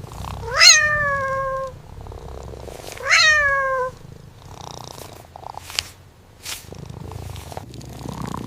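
A cat meowing twice, about two and a half seconds apart, each call jumping up in pitch and then sliding slowly down, over a low steady purr.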